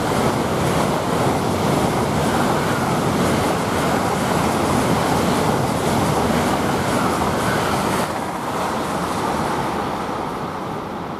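Eurostar Class 374 (Siemens Velaro) high-speed train running through the station at speed: a steady rush of air and wheel-on-rail rumble that starts fading about eight seconds in as the train draws away.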